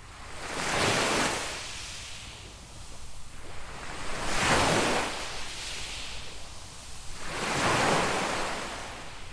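Waves breaking and washing up on a sandy beach, three in turn about three seconds apart, each swelling up and falling away.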